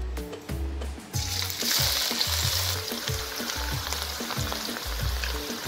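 Julienned ginger dropped into hot oil in a pan, sizzling from about a second in, loudest at first and then settling to a steady frying hiss. Background music with a steady beat plays underneath.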